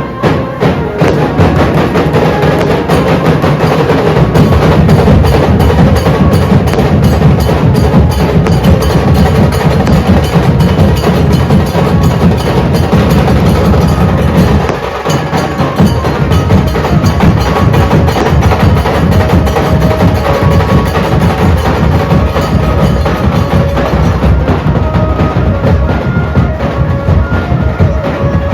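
Dhol drums played hard and fast in a dense, continuous beat, with a brief break about halfway before the drumming picks up again. A faint melody sounds above the drums.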